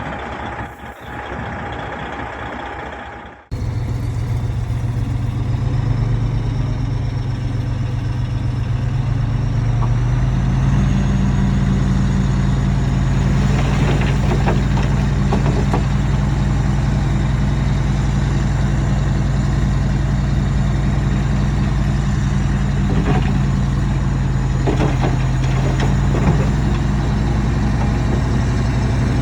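Heavy earthmoving machine's diesel engine running steadily. Its pitch rises a little about ten seconds in and holds there, with a few faint knocks. The sound changes abruptly a few seconds in.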